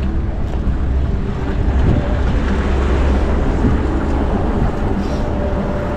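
City street traffic noise, with a steady low wind rumble on the microphone.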